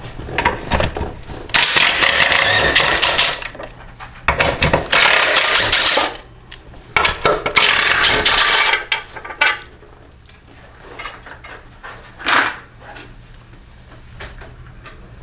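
A power tool run in three loud bursts of one to two seconds each, during disassembly of a push mower, followed by a single short metallic clank.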